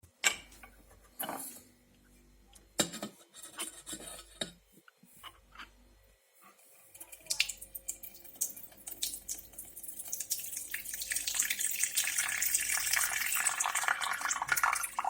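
Clinks and knocks of an electric kettle being handled, then, from about seven seconds in, a stream of water pouring from its spout into a vessel. The pour grows louder over a few seconds and then runs steadily; the owner rates it as slow rather than fast.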